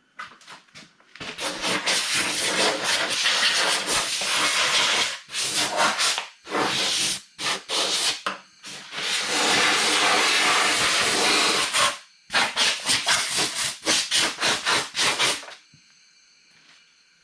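Compressed-air blow gun hissing in bursts as debris is blown off a lawnmower: a few short puffs, then long blasts of a few seconds each, then a run of quick puffs before it stops about 15 seconds in.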